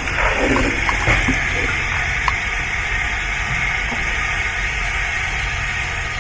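A steady, even hissing rush of noise with no rhythm, with faint voices in the first second or so.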